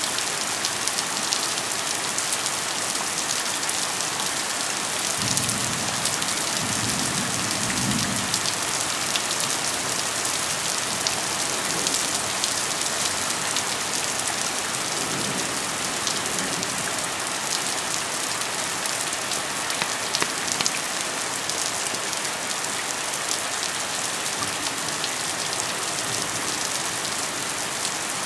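Steady rain falling, a dense hiss of drops. Low rumbles of thunder come in about five seconds in, lasting a few seconds, and again briefly around fifteen seconds in.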